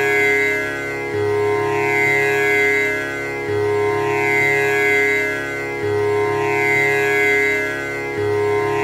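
Tanpura drone: its strings plucked in turn in a cycle that comes round about every two and a half seconds, the notes ringing on and overlapping into one continuous drone.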